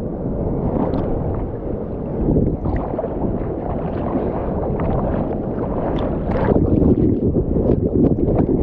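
Ocean water splashing and churning around a swimmer in the surf, heard muffled and up close, with many small sharp splashes throughout and growing a little louder near the end.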